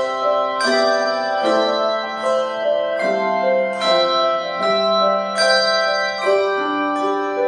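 Slow instrumental piano music: single notes and chords struck about once a second and left to ring out.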